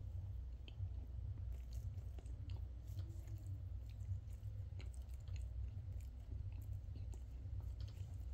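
A person chewing food close to the microphone: soft, irregular mouth clicks and smacks over a steady low rumble.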